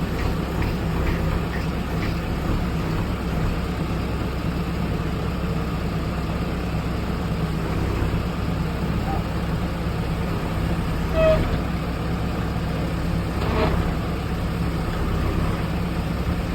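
Heavy diesel engine of earth-moving machinery running steadily, with a brief high-pitched sound about eleven seconds in.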